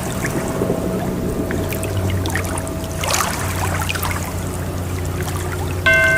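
Trickling water over a low steady drone. Near the end, a sustained ringing tone with overtones sets in suddenly.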